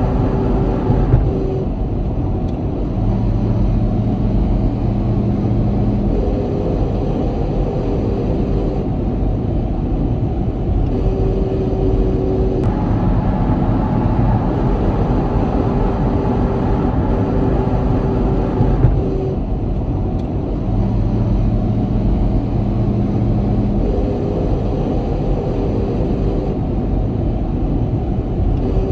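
Daihatsu Hijet Jumbo S510P kei truck running at highway speed with steady road and engine noise. Twice, for about three seconds each, a low hum rises out of it: the abnormal noise that appears only at highway speed with the accelerator released, its cause unknown to the owner.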